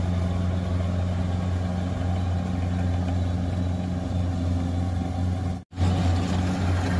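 Rice combine harvester running with a steady low engine drone. The sound cuts out for an instant near the end.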